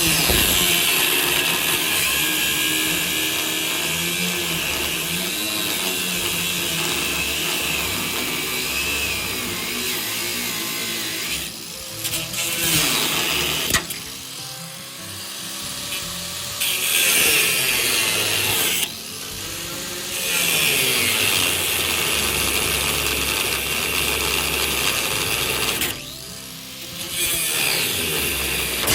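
Angle grinder cutting through a seized nut, running under load in long stretches broken by several short pauses in which the disc winds down and spins back up.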